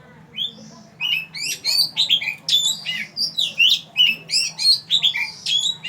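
Oriental magpie-robin singing: a fast, unbroken run of varied whistled notes sliding up and down in pitch, beginning with a single note and running on from about a second in.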